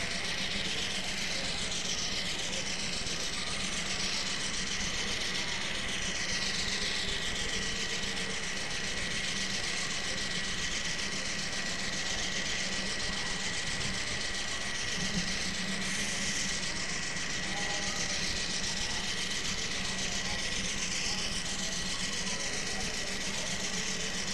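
A train running steadily: a constant rumbling noise with a thin, steady high whine over it.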